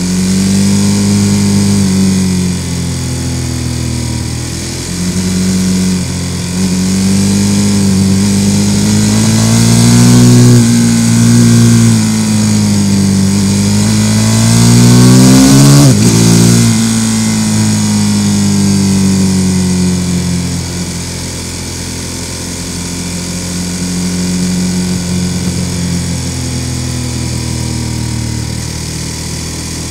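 Sport motorcycle engine under way, its pitch rising and falling with the throttle through the bends. It climbs hard to a peak about halfway through, then drops sharply on a gear change and settles to a quieter, steadier run near the end, with wind rush throughout.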